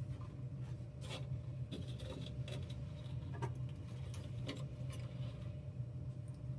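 Small clicks, taps and rustles of hands handling furnace wiring and parts, over a steady low hum.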